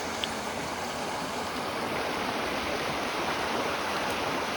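A small river running high after rain, rushing water making a steady, even noise.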